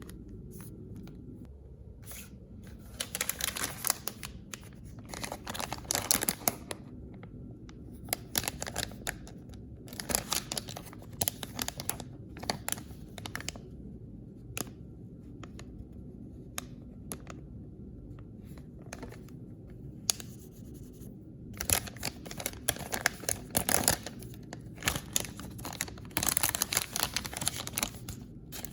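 Blind-bag toy packaging being torn open and crinkled by hand, in a string of crackly bursts of a second or two each with short pauses between, over a steady low hum.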